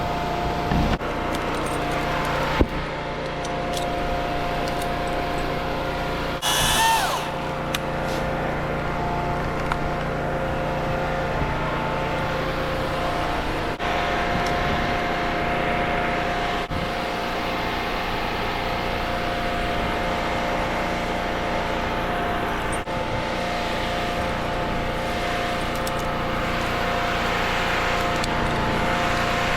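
An engine running steadily, with a brief burst of louder hiss about six and a half seconds in.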